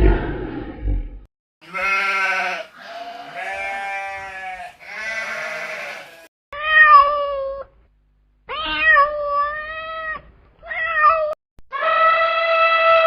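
A short low growl at the start, then three long bleats, then a domestic cat meowing four times.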